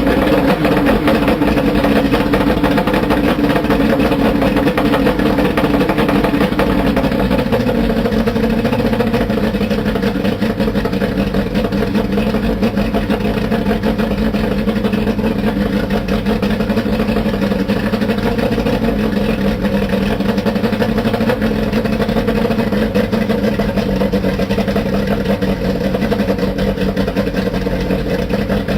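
Johnson two-stroke outboard motor idling just after its first start of the year, its speed dropping and settling lower about seven seconds in.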